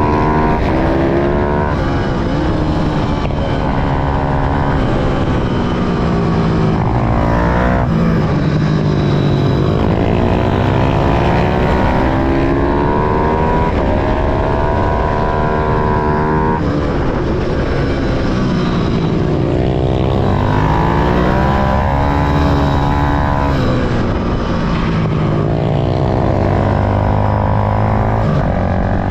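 Small pit bike motorcycle engines revving hard on a track. The pitch repeatedly climbs and then drops abruptly, as at gear changes and braking.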